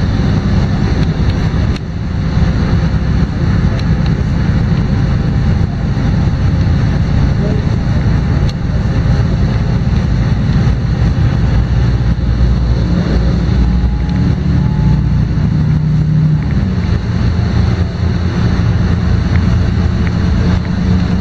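LiAZ-5292.22 city bus running, heard from inside the passenger cabin: a steady diesel engine drone with road noise. The engine pitch climbs over a few seconds and then drops back about three-quarters of the way through, as at a gear change.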